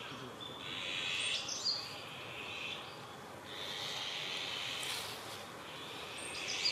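Small birds singing in woodland: three high, busy song phrases, each about a second and a half long, a couple of seconds apart.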